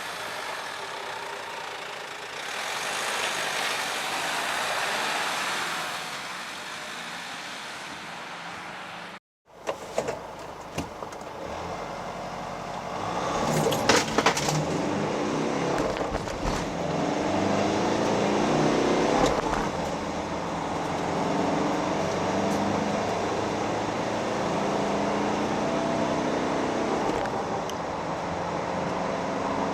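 Mercedes-Benz Vito 114 CDI's four-cylinder turbodiesel pulling hard under full-throttle acceleration, heard from inside the van. After a steady stretch of road and engine noise and a short break with a few clicks, the engine note climbs, drops at a gear change, then climbs again.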